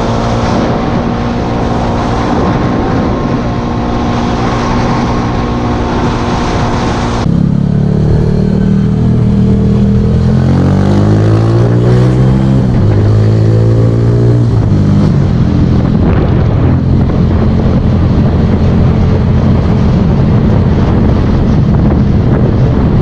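Motorcycle engine running steadily at cruise. About seven seconds in, this cuts abruptly to a louder motorcycle engine whose revs rise and drop through several gear changes before it settles into a steady run.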